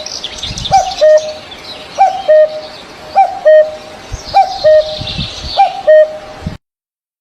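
A bird repeating a low two-note call about once a second, with fainter high-pitched chirping behind it. The sound cuts off suddenly near the end.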